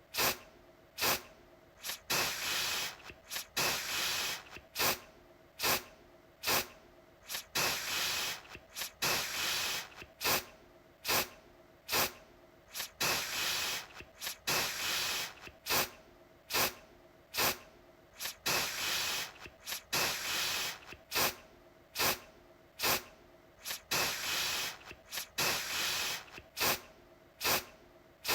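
Aerosol deodorant can sprayed in short repeated bursts of hiss, about one a second, each starting sharply and some held a little longer than others.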